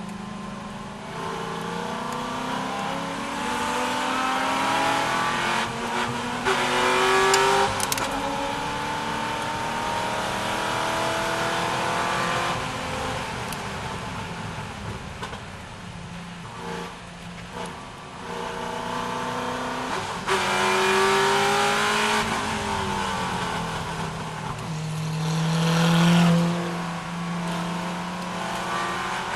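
C6 Corvette's V8 engine at racing pace, revving up through the gears with the pitch climbing, then dropping back off throttle, over and over. The loudest full-throttle pulls come about a quarter of the way in and near the end.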